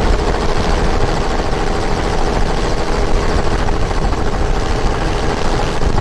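Helicopter running steadily, its rotor and engine noise unbroken.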